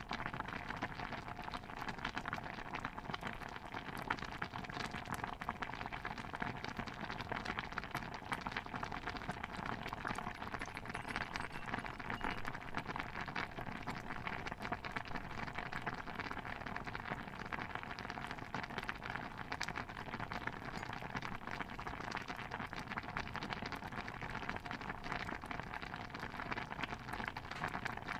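Steady kitchen ambience bed of dense small pops and crackles, as of a stew bubbling in a pot.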